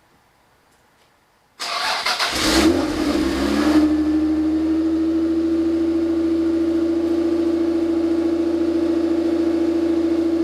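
V6 engine in a Toyota MR2 starting up through a freshly fitted Fujitsubo Legalis R cat-back exhaust. It cranks and catches about one and a half seconds in, flares up in revs, then settles into a steady idle.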